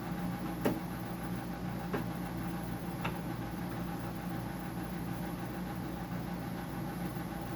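Steady hum of a running Whirlpool dehumidifier's compressor and fan, with a few faint light clicks in the first three seconds.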